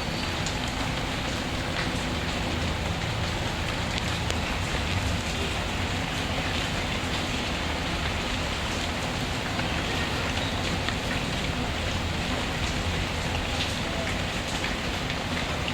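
Steady rain falling, an even hiss of drops on a surface, with faint scattered crackles and pops from a wood fire.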